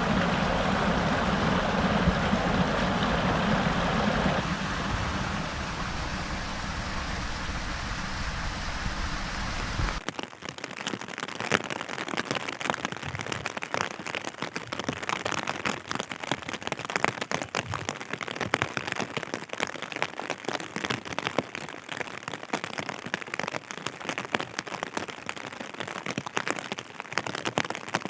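Rain falling. For about the first ten seconds it is a steady, deeper rushing noise; then it changes abruptly to a dense, crackly patter of raindrops hitting a surface.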